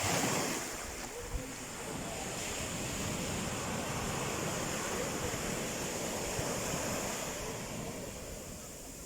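Sea waves breaking and washing ashore: a steady rush of surf that swells for several seconds, then eases off near the end.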